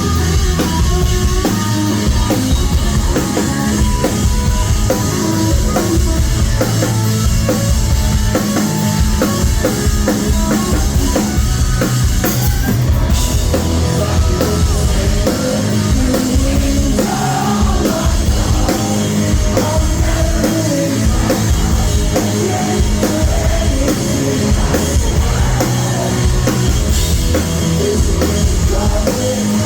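Live rock band playing loudly, with a drum kit keeping a steady beat under amplified instruments. It is heard through a phone's microphone in the crowd.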